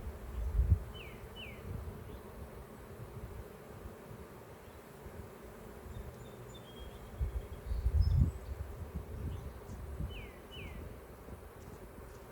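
Honeybees buzzing around an open, crowded hive: a steady hum. Low rumbling thumps come about half a second in and again around seven to eight seconds in. Short high falling chirps sound twice, in pairs.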